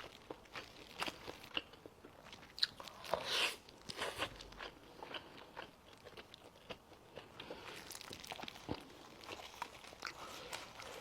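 Close-miked ASMR eating of spicy braised chicken: biting and chewing with many short wet mouth clicks and crunches. A louder bite or tear comes about three seconds in.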